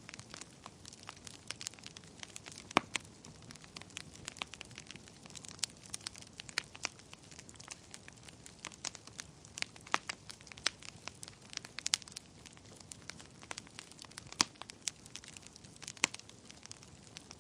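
Wood fire burning in a fireplace: a soft steady hiss under frequent, irregular crackles, with a few sharper pops now and then.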